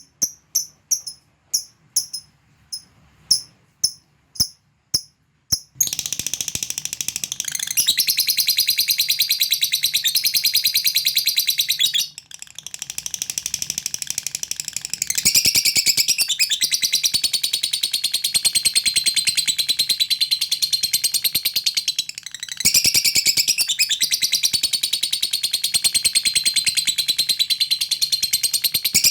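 Lovebird giving sharp, evenly spaced chirps, about two or three a second. About six seconds in it breaks into the long, fast, continuous chattering trill called ngekek, with short breaks near the middle and about two-thirds through. This is the call of a lovebird challenging a rival.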